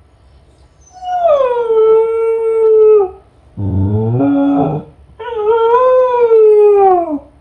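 Kai Ken dog howling while left home alone: two long howls, each sliding down and held steady before dropping away at the end, with a shorter, lower, rising call in between.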